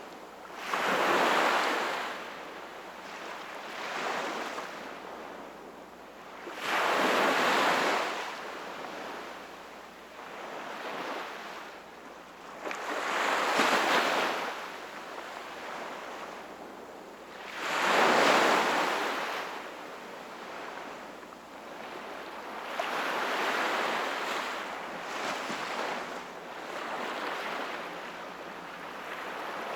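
Small ocean waves breaking and washing onto the shore, a surge every five to six seconds with softer washes between.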